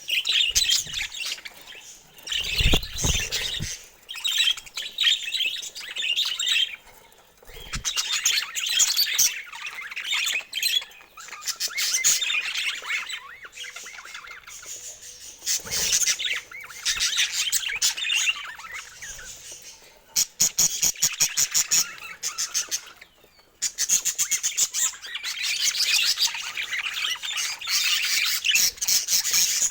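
Budgerigars chattering and warbling continuously, with a mix of quick chirps, squawks and rapid clicking runs. A brief low thud about three seconds in.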